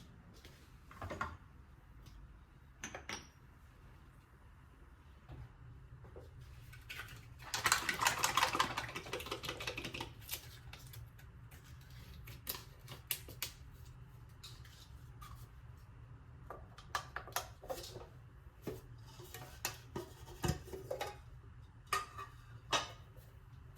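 Kitchen clatter while cake batter is prepared: utensils and containers clicking and knocking against bowls, with a dense run of rapid clicks about eight seconds in.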